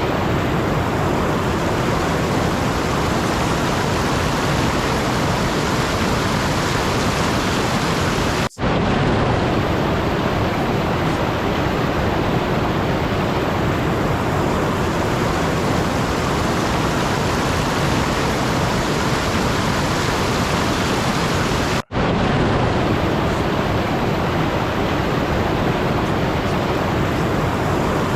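Steady, even rushing noise with no tones or rhythm in it, cutting out for an instant twice, about a third of the way in and again about three-quarters of the way through.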